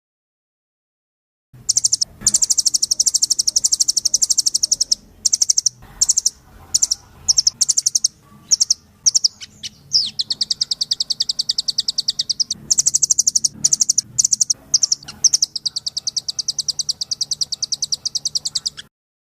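A rambatan loreng, a nuthatch, singing in fast, high trills. Long rapid runs alternate with short bursts of notes, starting about a second and a half in.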